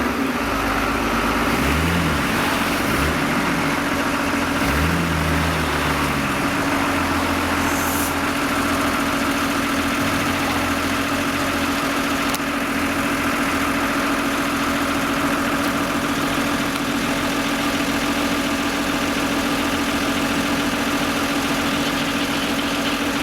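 Off-road vehicle's engine running with a steady drone, its pitch rising and falling a few times in the first six seconds before holding even.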